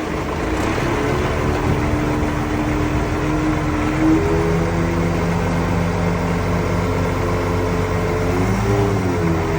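Heavy diesel engine of earthmoving machinery running steadily at working revs, its pitch shifting briefly near the end.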